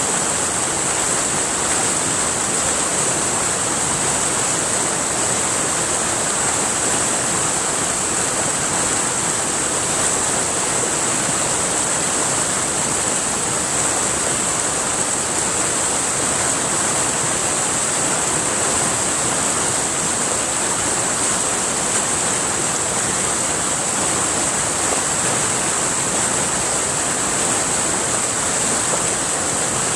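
River water flowing, a steady, unbroken sound of running water, with a constant high-pitched hiss above it.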